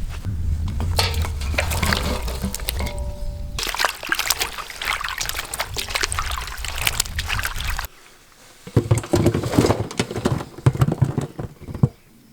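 Liquid pouring and splashing, with clattering. It breaks off abruptly about eight seconds in and resumes in louder bursts.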